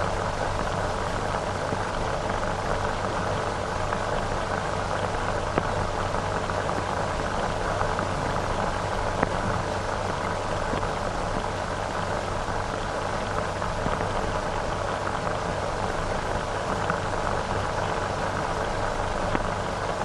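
Steady hiss with a few faint clicks and crackles, with no speech or music: the background noise of an old film soundtrack.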